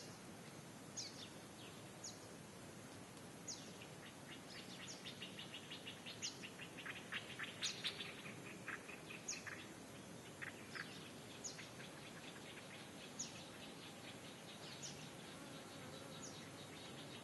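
Birds chirping faintly: short high chirps that drop in pitch, about one a second, with a fast rattling trill from about four seconds in to about eleven seconds.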